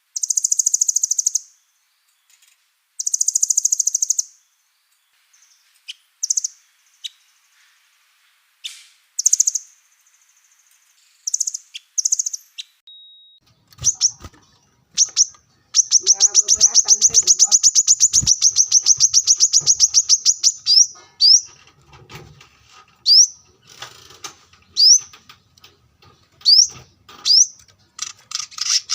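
Recorded song of small songbirds, a kapas tembak among them, made up of rapid high-pitched rattling trills (the 'tembakan') and short chirps. Near the start come two short trills. About 16 s in, one long dense trill runs for roughly four seconds, followed by a run of short rising chirps.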